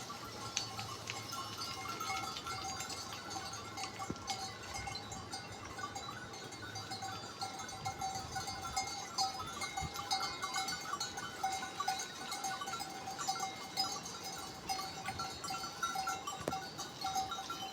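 Bells on grazing sheep clinking steadily and irregularly as the flock moves, many small jingles overlapping.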